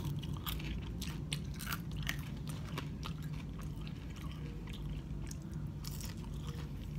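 Close-up chewing of crisp french fries: short, irregular crunches in quick succession.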